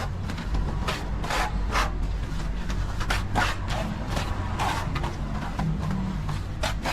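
Plastering tool scraping and rubbing over a wall in repeated short strokes, roughly two a second, over a steady low rumble.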